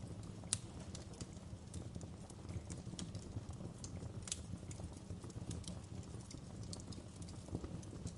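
Wood fire crackling: irregular sharp pops and snaps, the loudest about half a second in, over a steady low rumble of burning.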